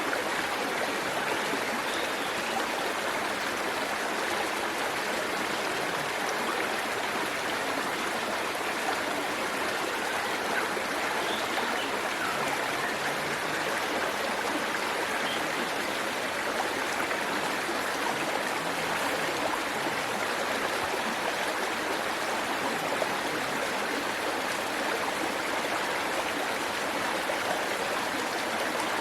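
Waterfall: a steady rush of falling and flowing water, an even hiss that neither rises nor falls.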